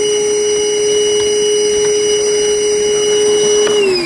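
An electric motor running at a steady high pitch, then switched off near the end and spinning down with a falling pitch.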